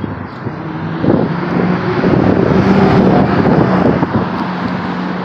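B7 Audi RS4's 4.2-litre V8 exhaust running hard, getting louder about a second in and holding a steady deep note, easing off slightly near the end.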